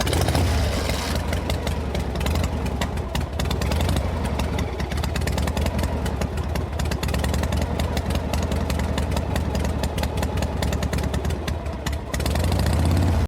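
An engine running steadily with a low drone and a fast, even pulse, cutting off suddenly at the end.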